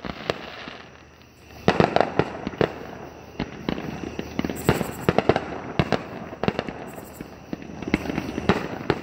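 Aerial fireworks display: a rapid, irregular series of shell bursts and crackling bangs, starting about a second and a half in after a quieter lead-in.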